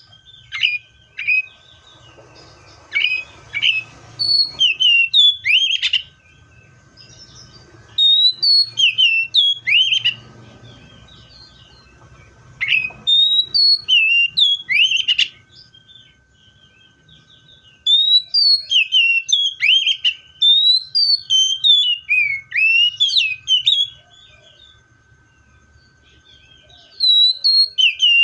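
Seychelles magpie-robin singing: loud, clear whistled phrases of short notes that slide quickly up and down. The song comes in bouts of a few seconds with short pauses between.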